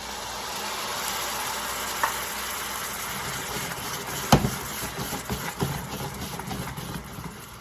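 White wine sizzling in a hot pan of sautéed onions, peppers, tomato paste and butter as the pan is deglazed; the hiss swells in the first second and slowly eases. A few sharp knocks against the pan come while it is stirred, the loudest about four seconds in.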